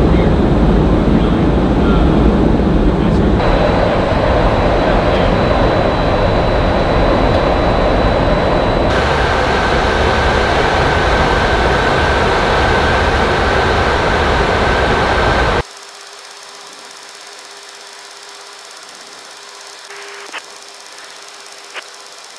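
Steady, loud cabin noise of the E-3 Sentry in flight, heard from inside the flight deck, with its character changing abruptly twice at edit cuts. About two-thirds of the way through it drops suddenly to a much quieter steady hum with a faint held tone and a few sharp clicks.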